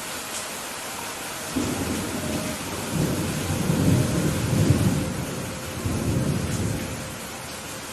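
Steady rain falling, with a roll of thunder that starts suddenly about a second and a half in, rumbles low in several swelling waves, and dies away near the end.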